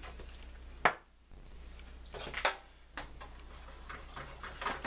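Kitchen handling sounds: a few sharp clicks and knocks of utensils and containers, spaced about a second apart, with quicker small ticks near the end.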